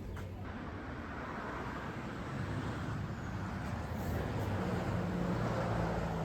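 A motor vehicle running with a steady low engine hum and road noise, slowly getting louder.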